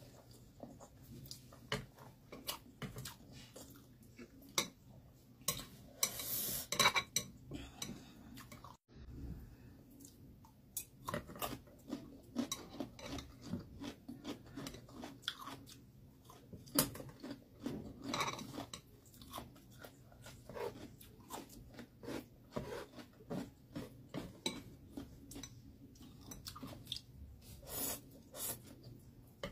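Close-up eating sounds: a person chewing instant noodles and fried egg, with some crunching, and chopsticks clicking against the plate and bowl. There are a few louder bursts about six seconds in, around eighteen seconds, and near the end.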